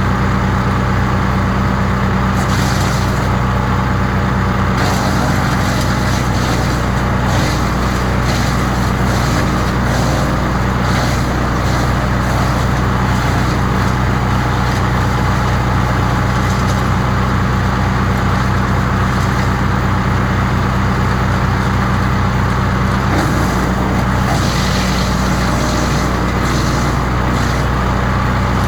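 The 15 hp petrol engine of a wood chipper running steadily, with a couple of stretches of added higher-pitched hiss and crackle.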